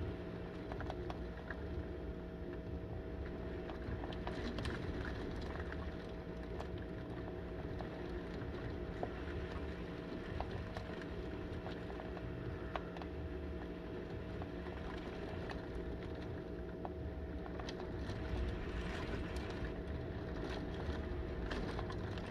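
Heavy wind-driven rain, steady and rushing, with a low rumble of wind and scattered sharp ticks of drops hitting the window. A faint steady hum runs underneath.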